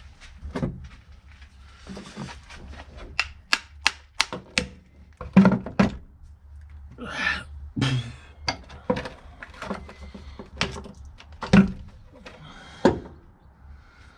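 Irregular series of sharp knocks and taps from hand tools at work, with a rasping noise lasting about a second around seven seconds in.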